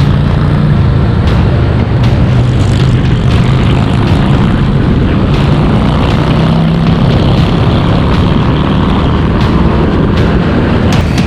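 Motorcycle engine running at a steady pitch while riding, under a continuous rushing noise.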